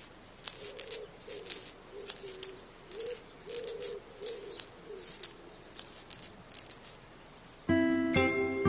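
Soft, dry rattling strokes repeating about twice a second, over a faint wavering low tone, like a gentle shaker in a children's-show soundtrack. Near the end, glockenspiel-like mallet music begins.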